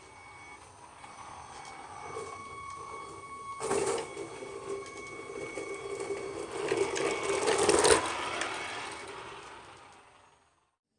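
Xinlehong 9125 RC monster truck's dual electric motors whining as it drives, the sound swelling and easing with the throttle. Two louder rattling surges come about four and eight seconds in.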